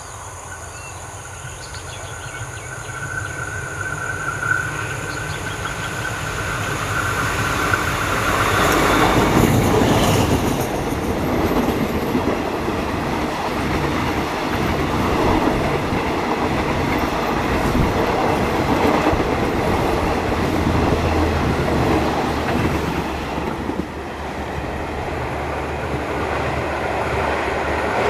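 Passenger train hauled by an Alsthom diesel-electric locomotive passing: the locomotive grows steadily louder over the first nine seconds, then the coaches rumble and clatter over the rails for the rest of the time.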